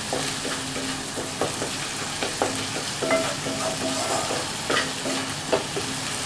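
Onion, ginger and garlic paste sizzling as it fries in a non-stick wok, with a wooden spatula stirring and scraping the pan in strokes about twice a second, some of them squeaking briefly.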